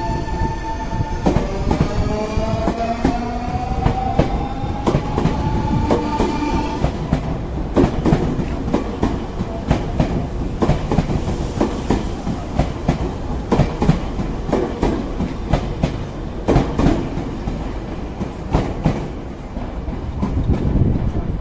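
Nankai electric commuter train pulling away from the platform: about a second in, its motor whine starts rising in pitch for about five seconds as it accelerates. The cars' wheels then clatter rapidly over rail joints and points as they pass.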